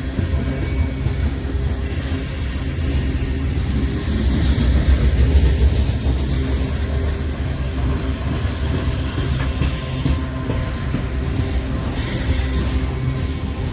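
Freight train cars rolling past on the rails in a steady low rumble, with faint wheel squeal now and then.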